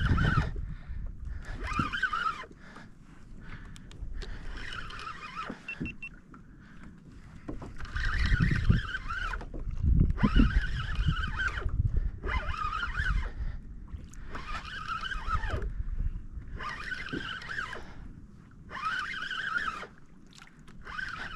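Fishing reel being cranked in repeated bursts, about one every two seconds, with its gears whirring, as a deep-drop rig with fish on is wound up from deep water. Low rumble of wind and water underneath.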